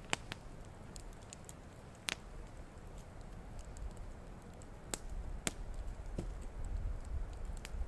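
Wood campfire crackling, with sharp irregular pops a few seconds apart over a soft hiss. A low rumble builds in the second half.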